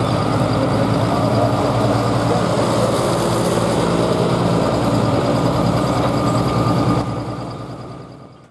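Pro Stock diesel pulling truck's engine running steadily, then fading away over the last second and a half.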